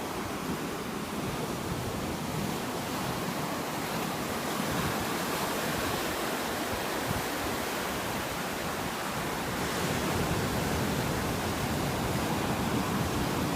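Ocean surf breaking and washing on a beach, a steady rushing wash that swells slowly in loudness, with some wind noise on the microphone.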